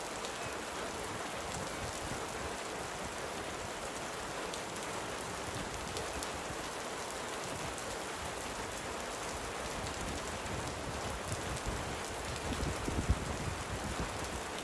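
Steady hiss of gentle rain falling, with a few soft low thumps in the last few seconds.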